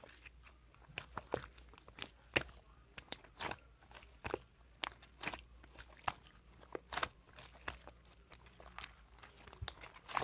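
Slime being pressed and squished by hand, giving irregular sharp crunchy clicks and pops, a few a second.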